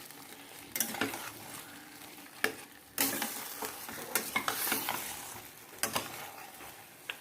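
Marinated chicken and masala frying in a pan while a spatula stirs and scrapes it, with a faint sizzle and several sharp knocks and scrapes of the spatula against the pan.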